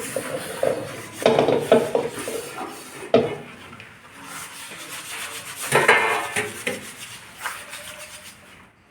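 Metal pots being washed by hand: scrubbing with clattering knocks of pot against pot or sink, a spell of clatter about a second in, a sharp single knock around three seconds, and another clatter near six seconds.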